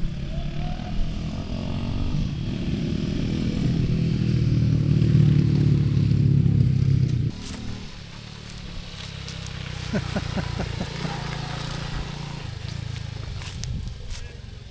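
A group of postie bikes, small single-cylinder motorcycles, riding in. The engines grow louder to a peak between about five and seven seconds in, then drop off sharply. Quieter engine sound and a few brief revs follow.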